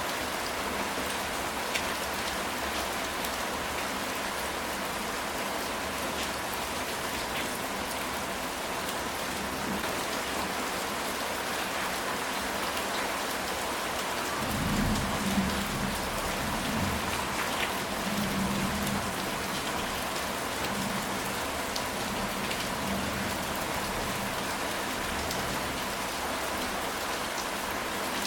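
Steady rain pattering on a ceramic tile roof. About halfway through, a low rumble of thunder rolls for a few seconds.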